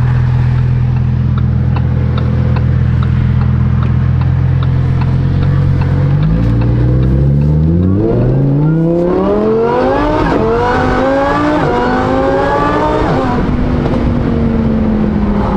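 Supercharged Lamborghini Huracan EVO's V10 through a titanium race exhaust, running steadily at low revs, then accelerating hard from about six seconds in, its pitch climbing with small steps through the shifts before the revs fall away near the end.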